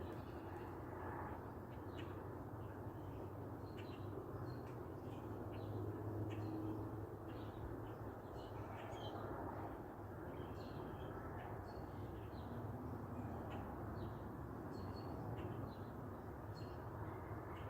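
Birds calling, with many short chirps and calls scattered throughout, over a steady low background noise.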